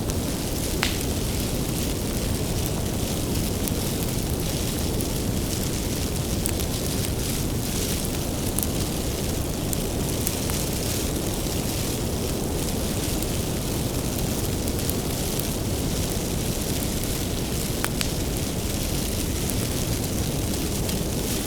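Wood bonfire burning with a steady low rumble of flames and scattered sharp crackles and pops of firewood, the clearest about a second in and again near the end.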